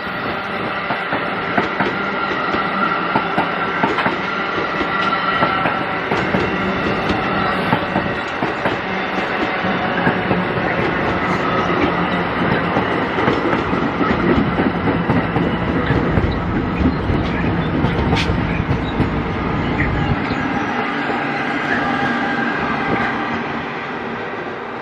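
New Jersey Transit Multilevel passenger train rolling past, its wheels clicking steadily over the rails. The low rumble drops away about twenty seconds in, as the train moves off.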